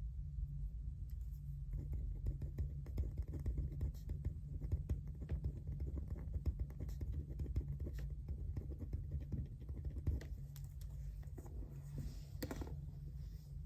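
A quick, irregular run of small clicks and scratches from work at a study desk over a steady low hum, with a louder rustle about twelve seconds in.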